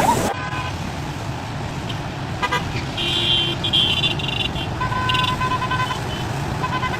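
Car horns honking several times, the longest about three seconds in and again around five seconds, over a steady background of traffic noise.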